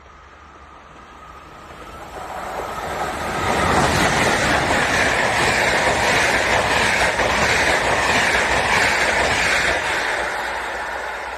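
A train passing close by: the rumble of wheels on rail builds over a couple of seconds, stays loud for about six seconds, then fades away.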